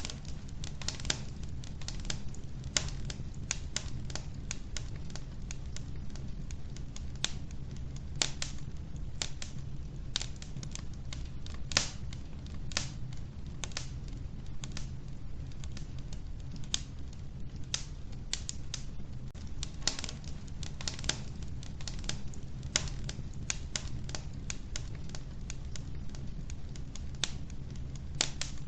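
Log fire burning in an old wood-burning stove: irregular sharp crackles and pops from the wood over a steady low rumble of the flames.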